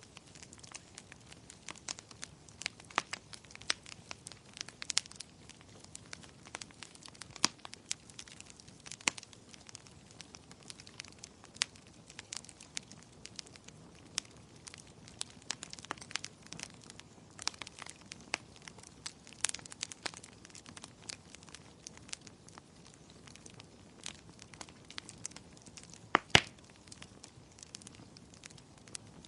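Wood fire crackling in a fireplace: irregular sharp pops and snaps, several a second, over a low hiss, with one louder pop a few seconds before the end.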